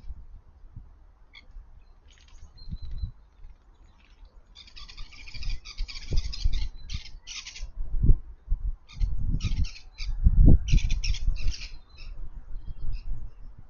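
Small garden birds chattering and squawking in short, dense bursts, with a few low thumps and rumbles in between, the loudest about ten seconds in.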